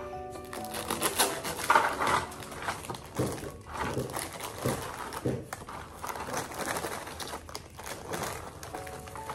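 Crinkling and rustling, with scattered irregular clicks and knocks.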